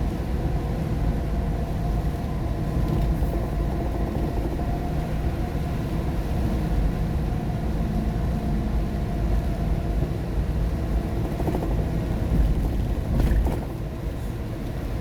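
Steady low rumble of a car driving in the rain on a wet road, heard from inside the cabin: tyre and engine noise with a faint steady hum. A short louder swell comes about 12 seconds in, then it settles a little lower.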